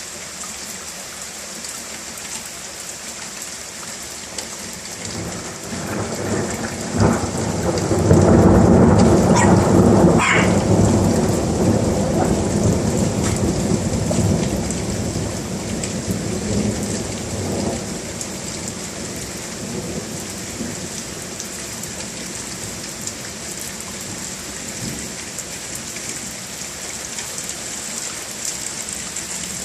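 Steady heavy rain, with a thunderclap about seven seconds in: a sharp crack, then a deep rumble that rolls for about ten seconds before dying away under the rain.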